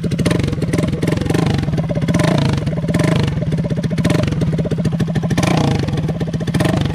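Hero XPulse 200's single-cylinder engine running with the stock silencer removed, exhausting straight out of the header pipe, blipped up several times; a loud, ear-piercing exhaust note.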